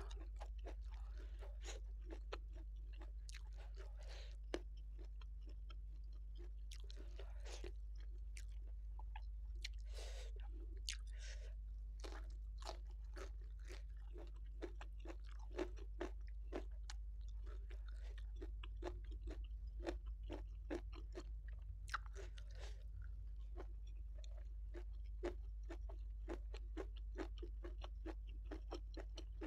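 Close-miked chewing and crunching of mouthfuls of rice, salted fish and raw vegetables such as napa cabbage, with many short crunches throughout, over a steady low hum.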